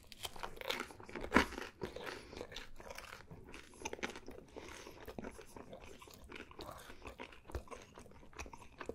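Close-miked chewing of a mouthful of pepperoni pizza, a dense run of small wet clicks and smacks with a sharper one about a second and a half in.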